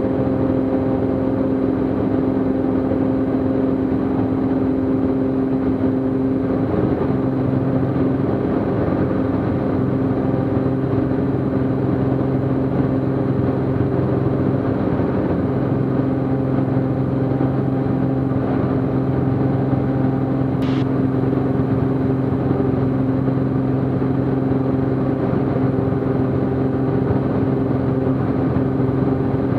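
Cessna T210 Centurion's turbocharged six-cylinder engine and propeller running steadily in the climb after takeoff. The engine tone shifts about seven seconds in, and there is one brief click about twenty seconds in.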